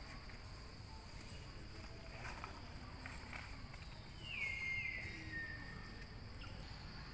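Steady high-pitched insect drone, with one high call about four seconds in that slides down in pitch and trails off over a second and a half.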